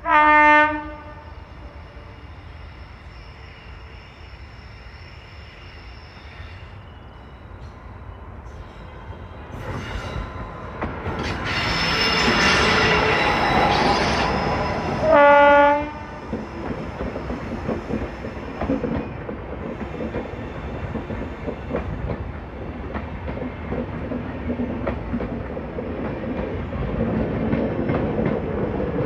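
WAP-7 electric locomotive sounds two short horn blasts, one at the start and one about halfway, as it hauls a passenger train slowly past. Its running noise swells and fades as it goes by, and then the coaches' wheels clatter steadily over the rail joints.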